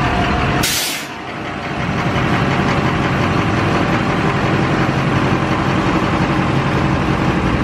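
Diesel pickup truck engine running steadily on a chassis dyno, with a short burst of hiss just under a second in and a brief dip in the engine sound right after.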